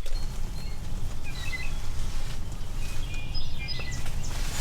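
Small birds chirping in short high calls, a cluster about a second in and more near three seconds, over a steady low rumble.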